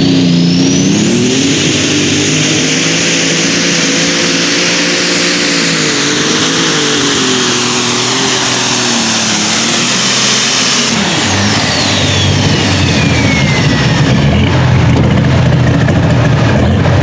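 Turbocharged diesel pulling tractor running at full throttle down the track, its turbocharger whine climbing to a high steady pitch within the first couple of seconds. After about eleven seconds the engine drops off and the turbo whine slides down as it spools down.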